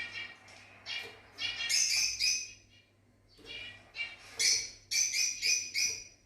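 Fischer's lovebirds chirping, rapid harsh calls in two bouts with a short pause about halfway through.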